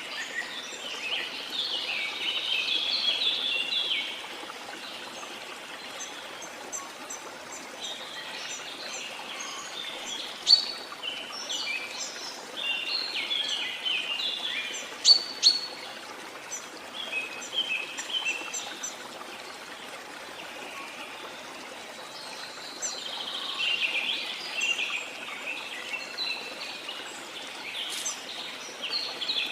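Steady rush of falling water with songbirds singing over it in several bouts of quick chirping phrases, busiest in the first few seconds, through the middle and again near the end.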